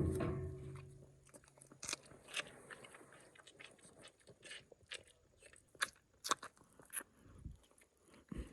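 Dry hay and straw crunching in irregular sharp crackles, several a second, with a brief low hum at the very start.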